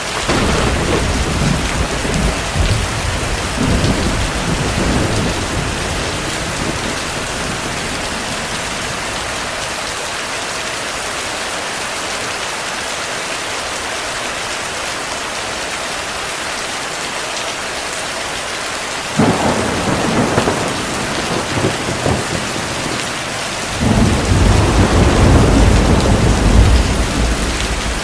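Steady heavy rain with rolls of thunder: a rumble for the first five seconds or so, another starting suddenly about two-thirds through, and the loudest, deepest one in the last few seconds.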